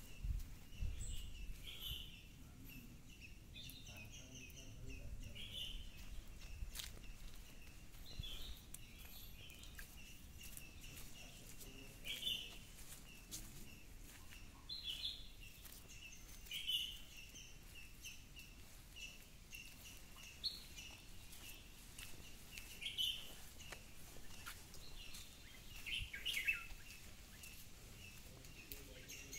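Birds chirping: a steady run of evenly spaced high chirps, with louder, fuller calls breaking in every few seconds. A low rumble underlies the first few seconds.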